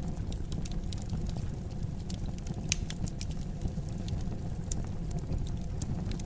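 Wood fire in a fireplace crackling: irregular sharp pops and snaps over a steady low rumble of the flames, with one louder pop a little before the middle.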